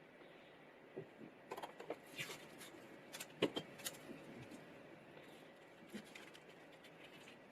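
Small hard objects being handled on a workbench: scattered light clicks and rattles, the sharpest about three and a half seconds in.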